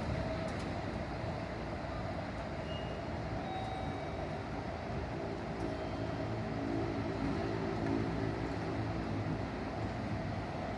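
A large vehicle's engine running steadily, with a faint humming tone rising out of it for a few seconds around the middle.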